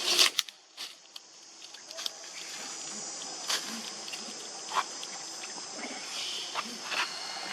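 Crickets or similar insects chirring steadily in the background. Scattered sharp clicks and rustles come on top, the loudest at the very start.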